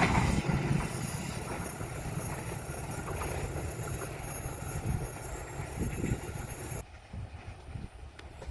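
Passing train running on the rails, a low rumble slowly fading away, then cutting off abruptly about seven seconds in, leaving only a faint low rumble.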